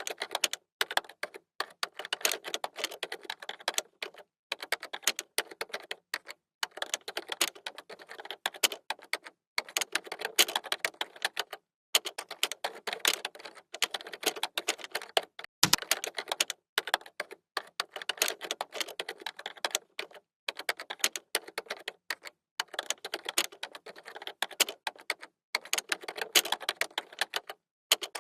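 Computer keyboard typing: rapid key clicks in bursts of a second or two, broken by short pauses.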